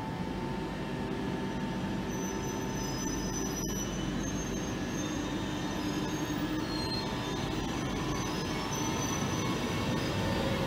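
ETR 463 Frecciabianca electric tilting train pulling slowly into the platform, a steady rumble growing a little louder as it nears. Thin high squealing tones from the wheels and brakes run over it.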